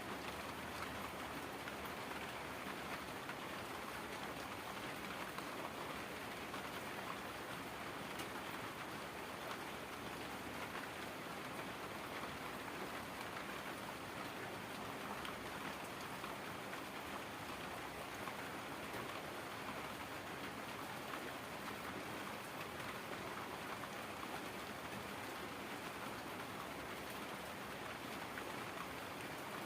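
Heavy rain falling steadily: an even hiss of many drops with faint scattered ticks, unchanging throughout.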